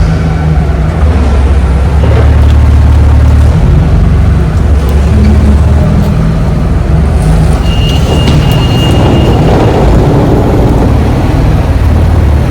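Semi truck's diesel engine running with a steady low rumble. A brief thin high tone sounds for about two seconds near eight seconds in.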